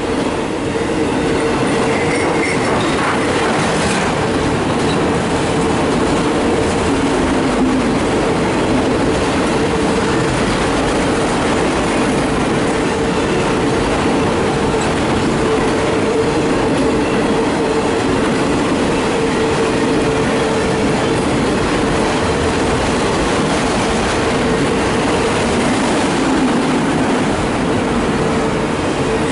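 An empty autorack freight train rolling steadily past: a continuous rumble and clatter of steel wheels on rail, with a steady whine held at one pitch.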